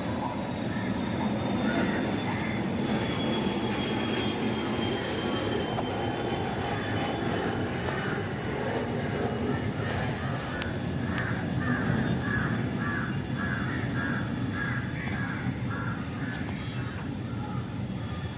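Steady low rumble of passing vehicles, with a bird calling in a run of short repeated caws for several seconds past the middle.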